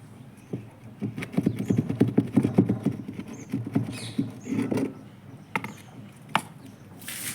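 Rapid clicking and rattling of small hard parts being handled during a washing machine gearbox repair, dense for about four seconds. It is followed by two single sharp knocks and a short hiss near the end.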